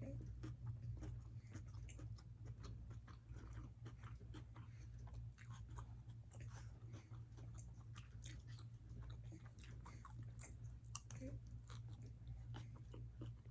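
A person chewing food close to the microphone, with many small irregular mouth clicks and crunches, over a steady low hum.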